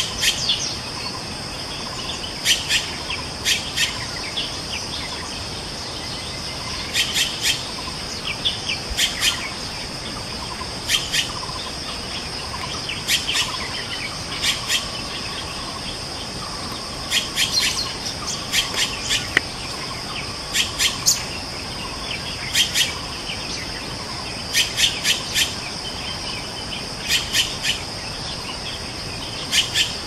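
Bird calls: groups of two to four quick, sharp notes every second or two, over a steady high insect drone.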